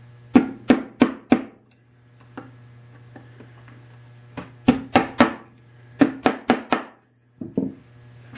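Sharp knocks on wood in quick bursts of four or five, about three a second, with short pauses between bursts, as when tapping a part into the wooden chest.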